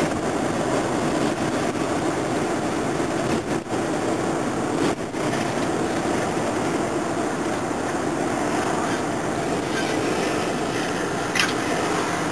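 Steady road and engine noise of a moving patrol car, heard from inside the cabin.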